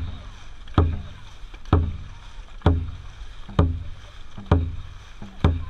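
Dragon boat drum beaten in a steady rhythm, one low booming beat about every second, setting the paddling stroke rate.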